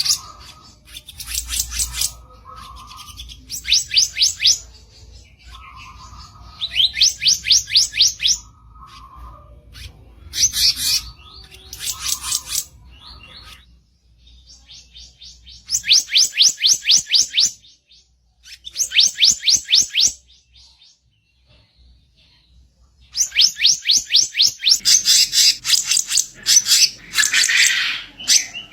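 Black-naped monarch (kicap ranting) giving its harsh song: bursts of rapid repeated high notes, each a second or two long, separated by short pauses. Near the end the bursts come close together, with a rasping call among them.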